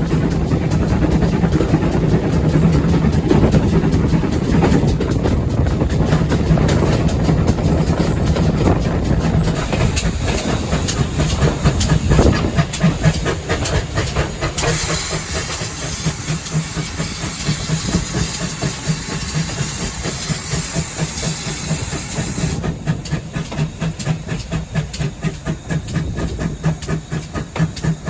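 Steam locomotive on the move, with a fast rhythmic beat throughout and a stretch of loud hissing steam about halfway through.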